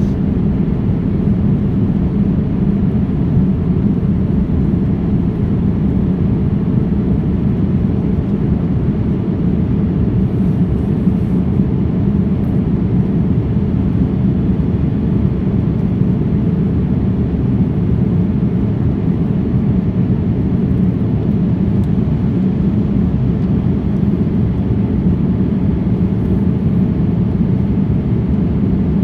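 Steady, even engine and airflow rumble of a jet airliner, heard from inside the passenger cabin.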